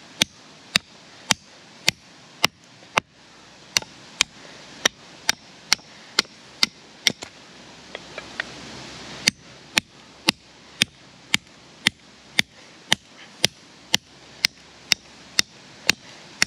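One-handed hatchet chopping firewood: sharp strikes at a steady pace, about two a second.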